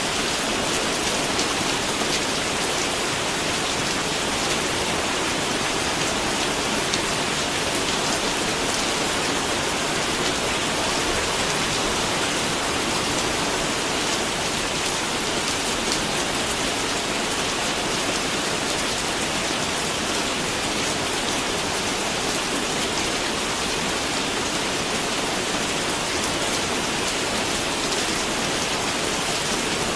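Steady rain falling, a dense even hiss of many drops pattering on surfaces, with no change in intensity.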